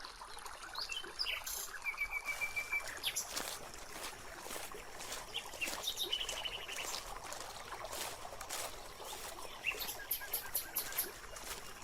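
Birds chirping in short repeated trills, over a faint trickle of water in the background.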